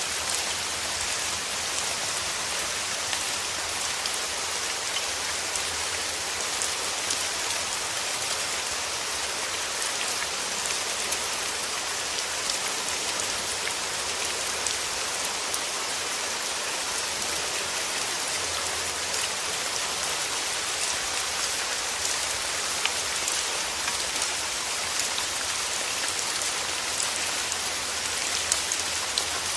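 Steady rain falling, a continuous even hiss with many individual drops pattering on a surface and a few louder drips standing out now and then.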